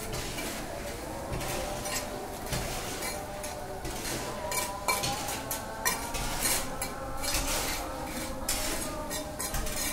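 Metal hand tool scraping and clinking in irregular strokes, with a few sharper taps around the middle.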